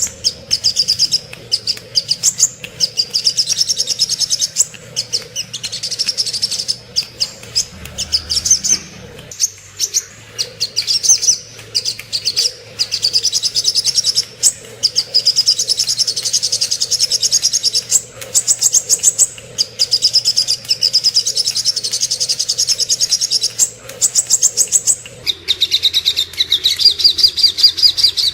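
Sogok ontong, a sunbird, singing a fast, high-pitched twittering song of rapid chirps strung into long phrases with brief pauses. About 25 s in, the recording changes to a slightly lower-pitched stretch of the same kind of song.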